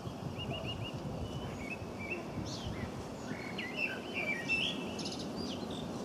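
Small birds chirping and calling, with a quick run of about five repeated high notes near the start and a cluster of mixed chirps and trills in the middle, over a steady low background rumble.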